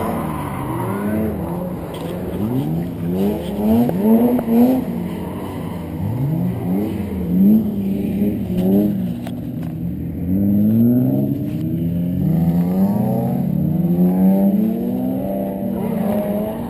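Car engine being revved hard during drifting, its pitch climbing and dropping again and again in quick sweeps over a steady low drone.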